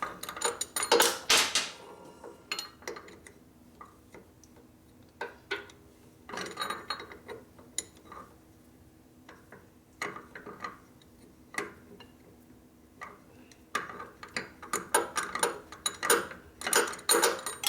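Hand wrench clicking and metal tools clinking while lug bolts are taken out of a motorcycle's front wheel: a quick run of clicks about a second in, scattered taps, then another busy run of clicks and clinks near the end.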